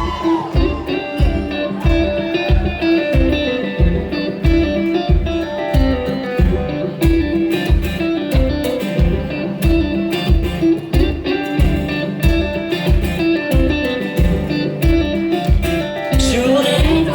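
Live country-pop song: an instrumental guitar passage over a steady low beat about twice a second, with the singing coming back in near the end.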